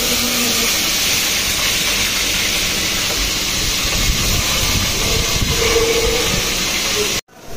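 Onions sizzling in hot oil in a cooking pot: a steady hiss that cuts off suddenly near the end.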